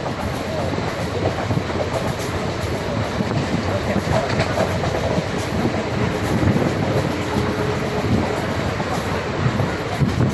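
Train running along the track: a steady rumble with the continuous rattle and clatter of wheels and carriages.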